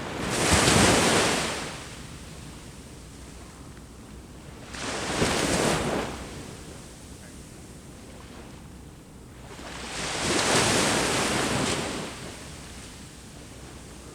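Sea waves breaking on the shore three times, about five seconds apart. Each wash swells and fades over one to two seconds, with a low steady hiss of surf between them.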